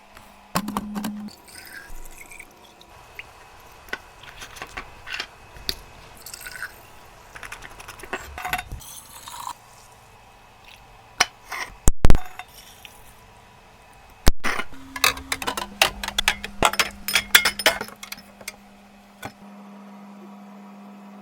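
Glass jars, bottles and hard containers clinking and being set down, in a scattered run of clicks and knocks as items are restocked. Two louder knocks come about twelve and fourteen seconds in, and a low steady hum comes and goes.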